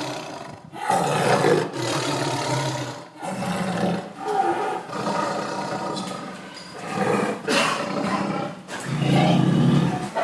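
Tiger roaring and growling: a run of about five harsh, rough roars, each a second or two long, with short breaks between them.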